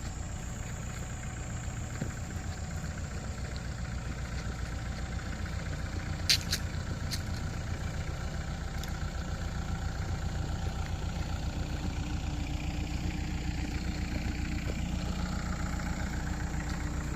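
Mini excavator's diesel engine idling steadily, with a couple of sharp clicks about six seconds in.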